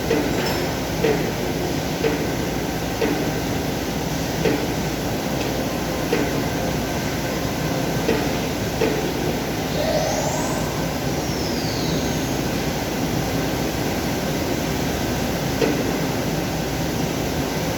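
CNC machine running with a steady mechanical noise and short knocks about once a second. A brief whine rises and falls about ten seconds in.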